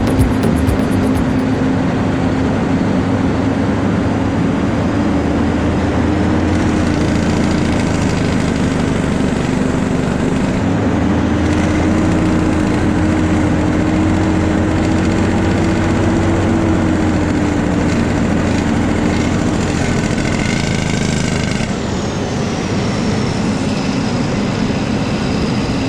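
Heavy truck engine running steadily, its pitch rising a little near the middle and easing back later, with a brief higher whine about twenty seconds in.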